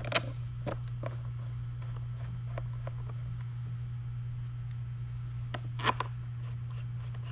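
A few scattered small clicks and taps of bolts and metal parts being handled while flight fins are bolted onto a Onewheel foot pad, the sharpest near the start and a pair of louder clicks about six seconds in, over a steady low hum.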